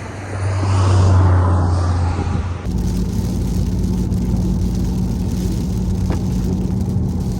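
BMW i8 driving, heard as a steady hum of engine and road noise inside the car. The hum changes abruptly about two and a half seconds in to a different steady tone.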